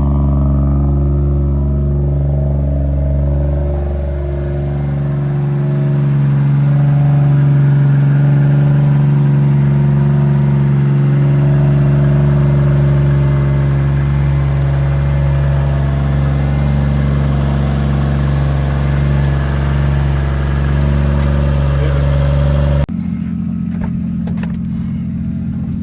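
Turbocharged 1JZ inline-six with a 3-inch straight-piped exhaust idling steadily as it warms up after a cold start. Near the end the sound changes suddenly to a quieter, lower engine hum.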